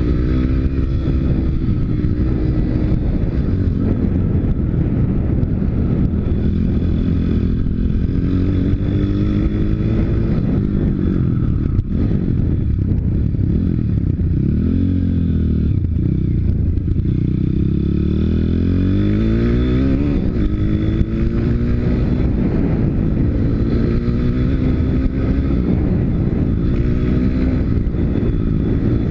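Pit bike's YX 160 single-cylinder four-stroke engine under way, its pitch rising and falling again and again as the throttle opens and closes. About halfway through the revs drop, then climb for a long stretch.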